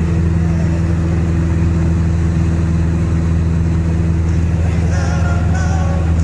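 Light aircraft's piston engine and propeller droning steadily in flight, heard from inside the cockpit.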